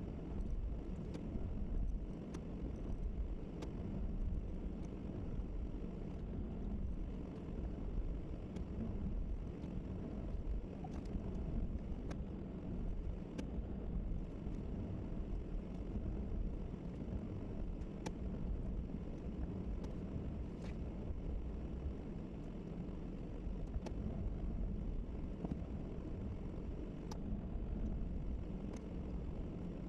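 Plow truck's engine running steadily, a low even drone heard from the truck, with occasional faint ticks.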